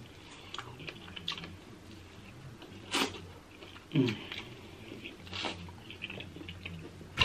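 Close-up eating sounds of crab: small irregular wet clicks and crackles from chewing and picking at the shell, with louder sharp snaps about three and four seconds in.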